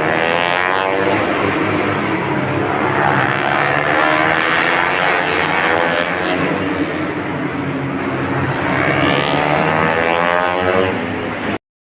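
Loud, continuous engine noise with sweeping rises and falls in pitch, cutting off abruptly near the end.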